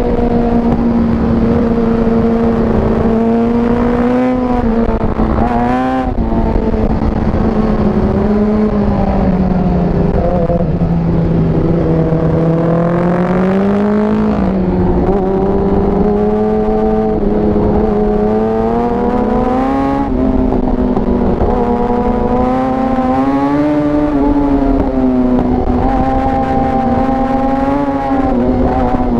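Sport motorcycle engine at full throttle on a racetrack, heard onboard. Its pitch climbs and drops again and again as the rider accelerates, shifts gear and brakes.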